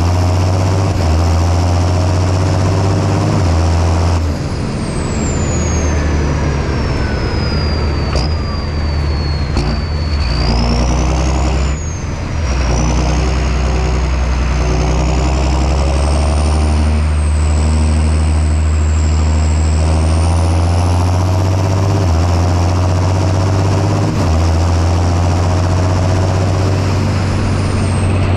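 John Deere 6630 Premium tractor's diesel engine running steadily under plowing load. A thin high whine slides down in pitch over the first few seconds, then rises and wavers.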